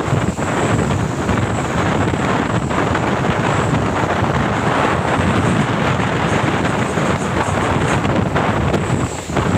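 Loud, steady wind buffeting the microphone over the rumble of road traffic, dipping briefly near the end.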